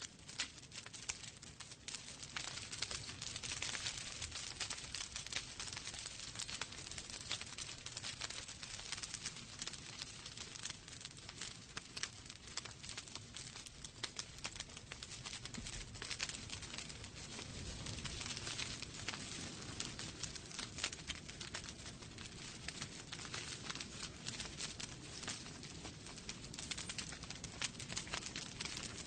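Wood fire burning in a fireplace, crackling steadily with many quick pops and snaps over a soft hiss.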